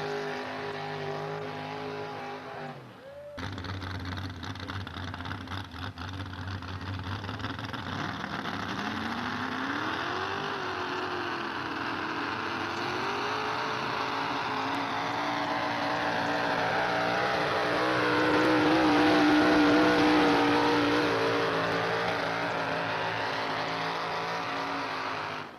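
Pulling truck's engine at high revs under load: its pitch climbs and then holds high and steady, loudest near the end before cutting off. About three seconds in, an earlier engine sound drops in pitch and is cut off.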